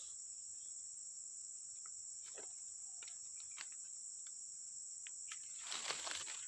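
Insects chirring steadily in one even, high-pitched band, with a few faint ticks and a brief rustle near the end.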